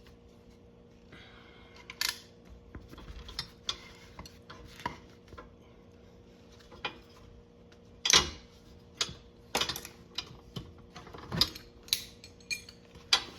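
Irregular metallic clinks and clacks of hand tools, bolts and washers being worked at an ATV's rear brake caliper mount, with the loudest knocks a little past the middle.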